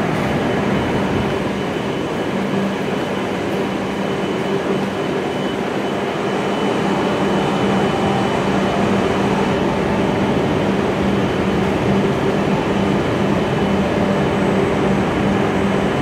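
Stationary E7 series Shinkansen idling at the platform with its doors open: a steady hum of its onboard fans and equipment, with a constant low tone and a faint higher whine.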